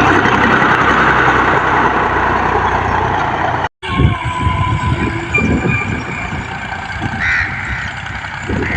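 Tractor engine running, with a steady low rumble; the sound drops out completely for a moment a little under four seconds in, then the engine carries on with a rougher, uneven rumble.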